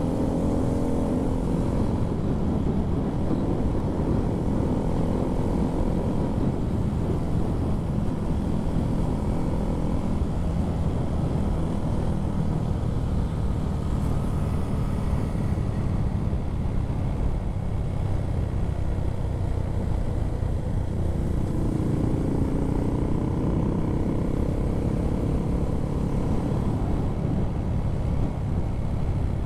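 Honda MSX125SF minibike's single-cylinder engine running steadily while riding. Its pitch climbs and falls near the start and again about two-thirds of the way through, as the rider speeds up.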